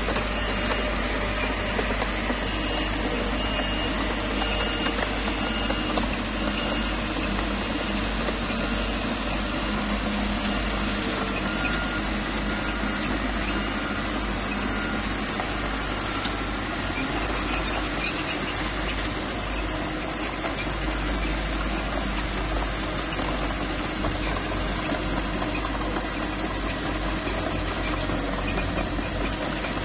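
Small bulldozer's diesel engine running steadily under work, with a faint high squeal through the first several seconds.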